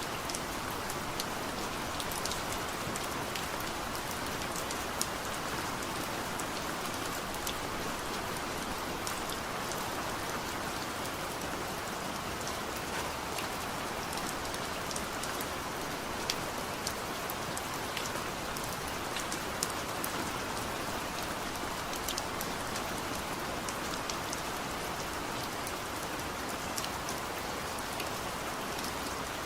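Heavy rain falling steadily: an even wash of rain with many sharp individual drop taps scattered through it.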